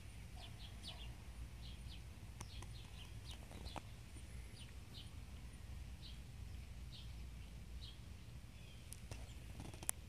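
Faint, scattered chirps of small birds, irregular and overlapping, over a low steady rumble. There are a few soft clicks, and a sharp knock near the end.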